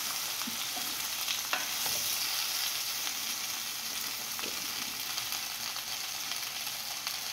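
Vegetables frying in oil in a pan, a steady high sizzle, with a few soft knocks and scrapes of a wooden spatula stirring them.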